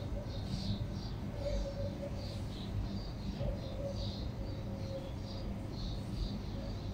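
Small birds chirping: quick, high, irregular chirps over a steady low background rumble.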